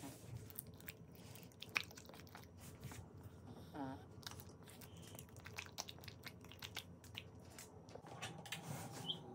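Faint chewing of blueberries: many small wet mouth clicks and crunches, with a sharper click nearly two seconds in. A short whine about four seconds in.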